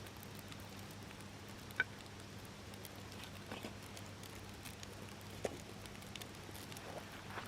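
Scrap-wood campfire crackling faintly, with a few scattered sharp pops over a low steady hum.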